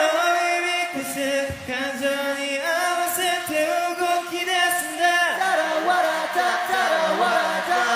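Wordless singing voices, several held and sliding notes layered like an a cappella choir.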